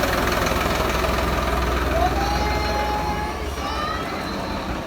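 Tractor engine running at idle, its low rumble dropping away about three seconds in, with voices calling over it.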